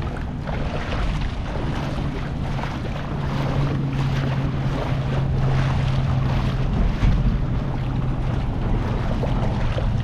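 Wind buffeting the microphone over a steady low motor hum that sets in about a second and a half in.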